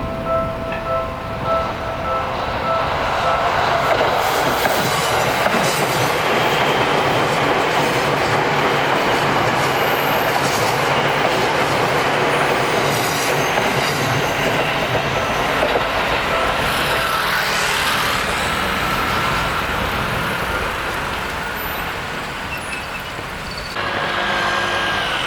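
A Seibu Shinjuku Line train passes over a level crossing: a long, loud rush of wheels and running gear clattering on the rails. The crossing's pulsing warning bell rings at the start, is drowned out as the train arrives, and is heard again near the end.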